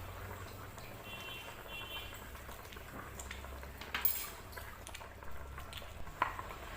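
A pot of gulai broth bubbling on the stove, with a few short clicks of utensils, the clearest about four seconds in and again about six seconds in.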